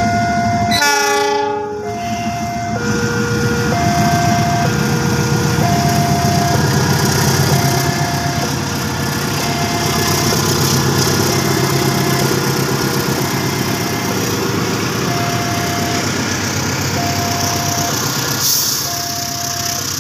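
Railway level-crossing warning alarm sounding its two alternating tones, high then low, each about a second. A diesel locomotive gives one short horn blast about a second in, then passes hauling a container freight train, its engine and wagons rumbling by steadily.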